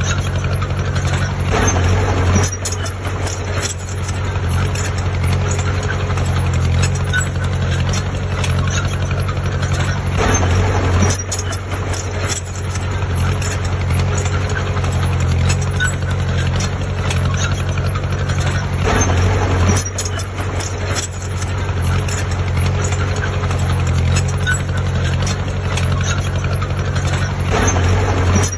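Heavy diesel engine of a construction machine running steadily, with a louder surge and clatter about every nine seconds.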